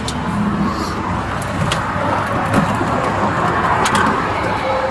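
Highway traffic going by, one vehicle swelling louder about four seconds in, with a few light clicks.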